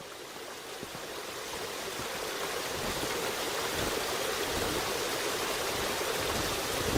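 Steady rushing noise of flowing water, rising gradually in level over the first few seconds and then holding steady.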